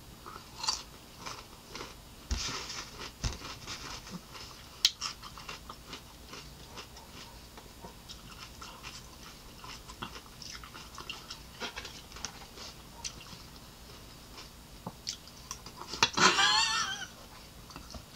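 Chewing a raw cucumber slice: a crisp bite and crunching in the first few seconds, then softer chewing. A short vocal sound is heard near the end.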